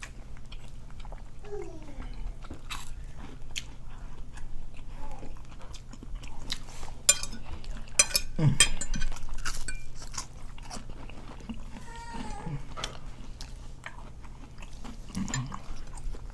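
Close-up eating sounds: chewing and smacking of breakfast food, with many short clicks and a cluster of louder clicks and crunches about halfway through. Brief faint vocal sounds come in here and there.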